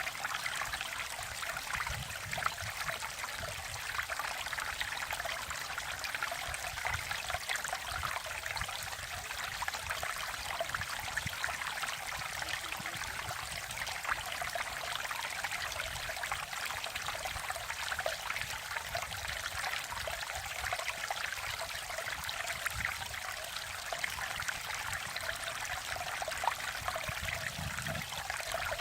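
Valley stream water running steadily, an even, unbroken rush and babble with no pauses.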